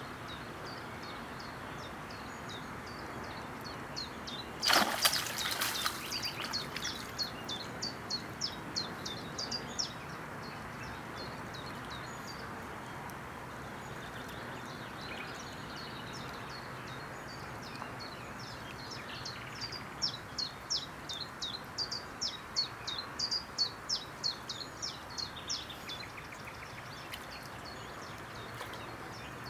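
Outdoor ambience with a small songbird singing two long runs of rapid, high, repeated notes over a steady background hiss. A short, loud rushing burst comes about five seconds in.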